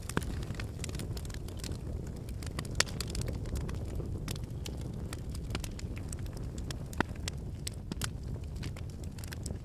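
Firewood burning: a steady low rush of flame with frequent small crackles from the logs, and two louder pops, about three and seven seconds in.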